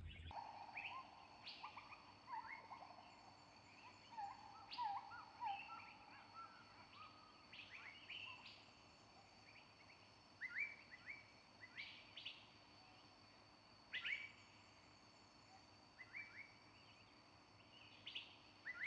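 Faint calls of several wild birds: short chirps and quick rising and falling notes, scattered through, over a faint steady high ringing.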